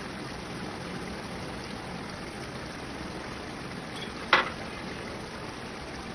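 Chicken karahi cooking in the karahi, a steady sizzling and bubbling, with one short sharp click about four seconds in.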